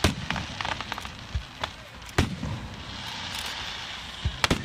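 Fireworks shells bursting: a series of sharp booms with quick crackling in the first second, a loud burst a little past two seconds in, and two bursts close together near the end.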